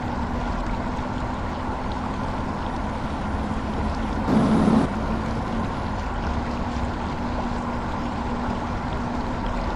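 An engine running steadily under a heavy load, with a constant low hum. About four seconds in it briefly gets louder for roughly half a second.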